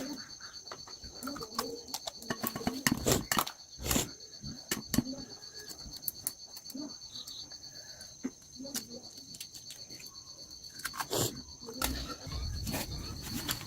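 Insects trilling steadily in a high, finely pulsed drone, with scattered sharp clicks and knocks of handling over it and faint low rustling noise coming in near the end.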